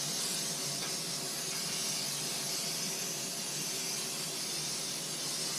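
Aerosol can of brake cleaner spraying in one continuous hiss, sprayed onto oil-soaked concrete to loosen spilled engine oil.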